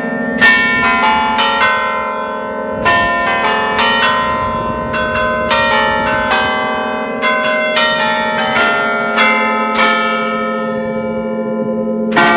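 A peal of nine church bells in B-flat, cast by Francesco D'Adda of Crema in 1931, rung by hand 'ad allegrezza': the bells hang still and are struck in quick melodic runs. Each run is a cluster of notes, with short lulls between the phrases, and the deeper bells ring on underneath.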